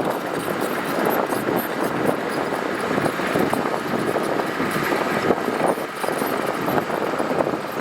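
Heavy earthmoving machinery working gravel: a steady, loud mechanical noise thick with crackling and rattling, with no clear engine note.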